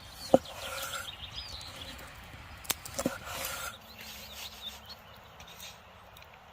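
A few sharp knocks, the first about a third of a second in and two more about three seconds in, with short high bird chirps in the first half, over faint outdoor background noise.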